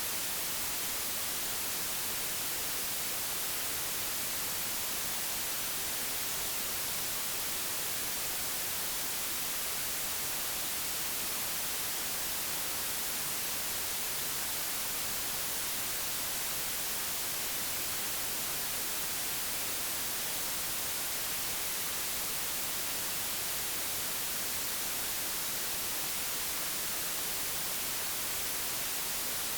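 Digitally generated white noise: a steady, even hiss with no changes, strongest in the treble.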